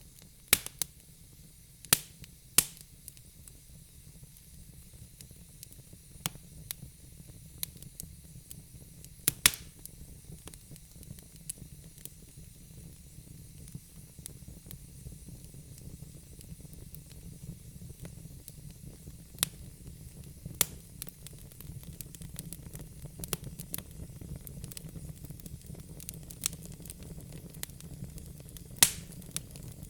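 Log fire in a fireplace crackling: irregular small snaps with a few loud sharp pops, over a steady low rumble and faint hiss of the burning wood.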